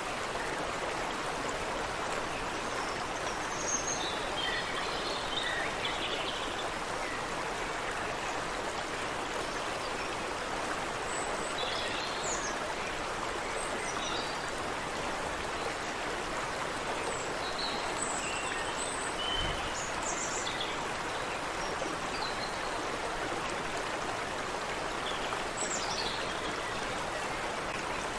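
Creek water running steadily over rocks, with a few faint, short bird chirps now and then above it.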